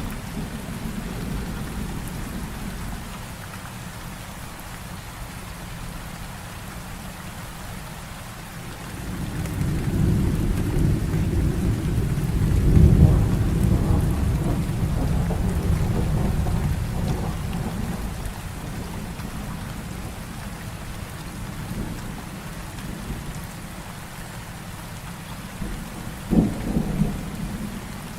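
Heavy rain falling steadily, with thunder. A long rolling rumble builds about a third of the way in, peaks near the middle and fades, and a short, sharper thunderclap comes near the end.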